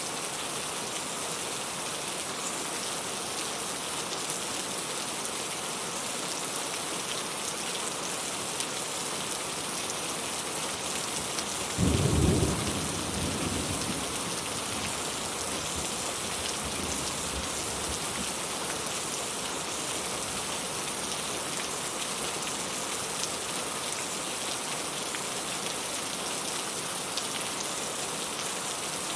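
Steady rain falling, with one sudden clap of thunder about twelve seconds in that rumbles and fades over a few seconds.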